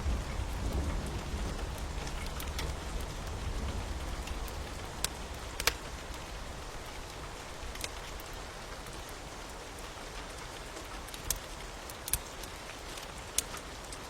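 Steady rain falling, with occasional sharp pops and crackles from a wood fire. A low rumble fades away over the first few seconds.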